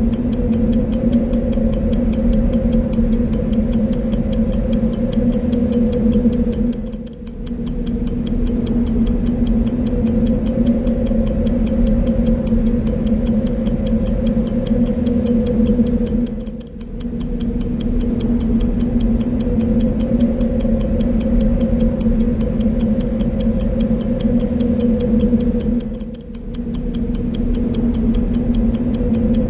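Clock ticking steadily and quickly over a continuous wind sound with a low hum, the mix dipping briefly about every nine and a half seconds.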